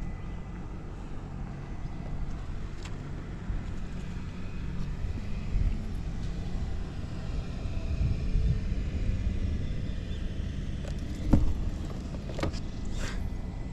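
Suzuki GS50's small four-stroke single-cylinder engine running steadily, a little louder about eight seconds in, with one sharp click a few seconds later. The engine runs quietly with no abnormal noise.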